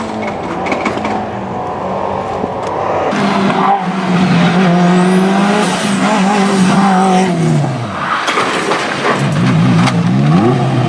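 Rally car engine at high revs, its note held steady for several seconds and then dropping away. Near the end it revs rapidly up and down, with tyre noise throughout.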